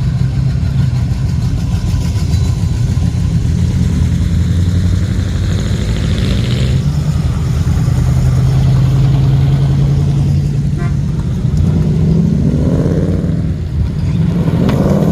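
Car engine running steadily at idle, then revved twice near the end, its pitch rising each time.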